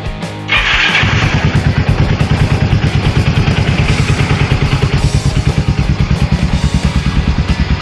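Kawasaki KZ200 (Binter Merzy) 198cc single-cylinder four-stroke engine starting about half a second in, then idling with a quick, even beat.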